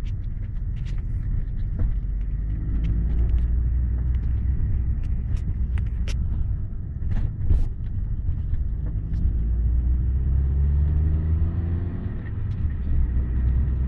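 Toyota Carina ED car with its engine running in a steady low rumble, the revs rising and falling twice, and irregular sharp knocks throughout: the knock from an engine mount that has come unbolted.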